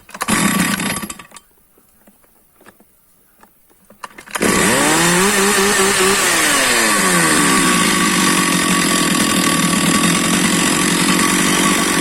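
Stihl MS460 two-stroke chainsaw being started after servicing: a short burst of noise in the first second, then the engine catches about four seconds in, revs up briefly, drops back and keeps running steadily and loudly.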